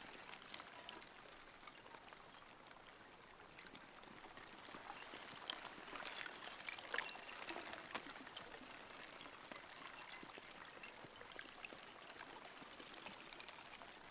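Faint outdoor ambience of trickling water, with scattered small clicks; it grows a little louder for a few seconds around the middle.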